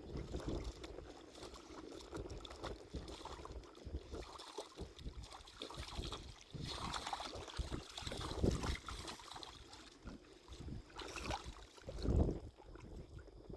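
Uneven wind rumble on the microphone mixed with moving water, swelling in irregular gusts.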